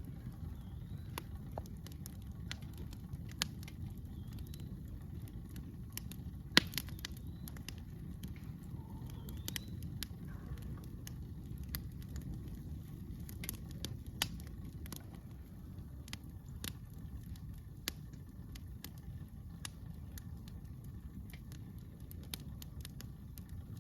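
Campfire crackling, with irregular sharp pops scattered through it, the loudest about six and a half seconds in, over a steady low rumble.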